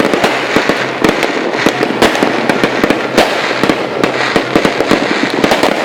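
Fireworks going off in a dense, continuous barrage: many sharp bangs a second over steady crackling.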